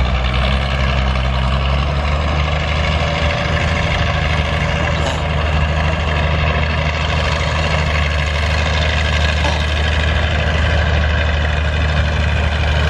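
Antique farm tractor engine running steadily at a constant speed, with a strong low tone.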